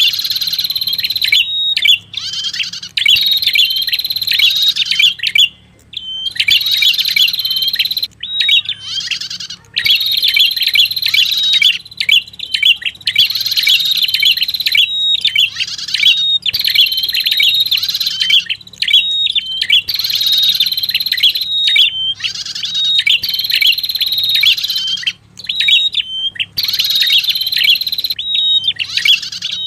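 Recorded lure song of the prenjak kepala merah, a bird-trapping call: loud phrases of rapid high chirps and short repeated notes, each phrase a few seconds long, separated by brief pauses.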